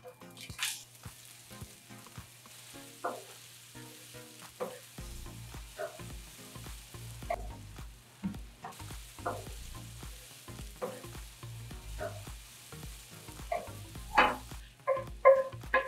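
Sliced onion hitting hot oil in a frying pan with a burst of sizzle, then onions, peppers and sliced mushrooms sizzling as they sauté. A wooden spoon stirs and scrapes the pan in short strokes that come louder and quicker near the end.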